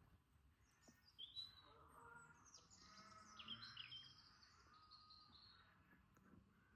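Faint birdsong: a run of short high whistles, chirps and trills that starts about a second in and fades out near the end.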